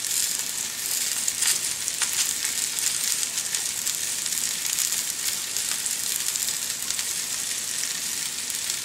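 Diced potatoes, sweet potato, onions and apple sizzling in butter and bacon grease in a skillet: a steady frying hiss, with a couple of faint ticks about one and a half and two seconds in.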